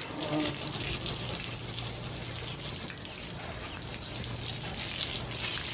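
Running water splashing and trickling steadily as a porch is washed down.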